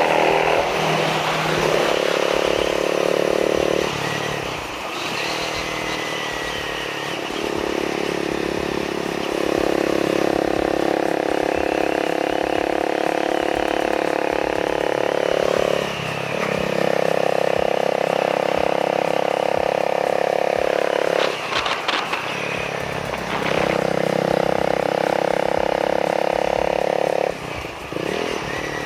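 Honda Rebel 250's single-cylinder engine, through an aftermarket slip-on megaphone muffler, running under way at a steady engine speed. The engine note drops away briefly about four times, as with throttle changes or gear shifts, then comes back.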